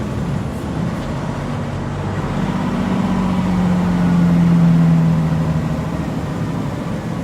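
Semi truck's diesel engine and road noise as the truck slows with no Jake brake engaged. A low engine drone swells around the middle and drops slightly in pitch.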